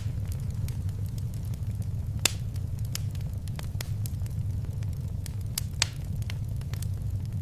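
Fireplace fire crackling: scattered sharp pops and snaps over a steady low rumble. The two loudest pops come about two seconds in and again near six seconds.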